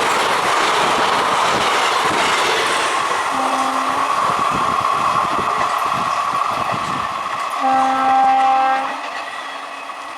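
Indian Railways express train running past with steady wheel and rail noise. The electric locomotive's horn sounds a short blast about three seconds in and a longer one near eight seconds, after which the train noise fades.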